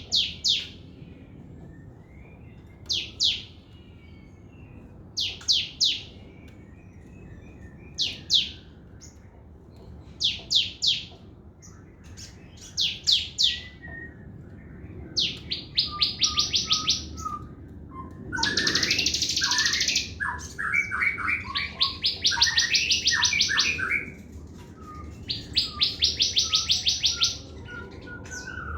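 A sogon (crested jay) calling: clusters of two to four sharp, high, downward-slurred notes, then from about halfway long, fast, rattling trills, with softer, lower chirps between them.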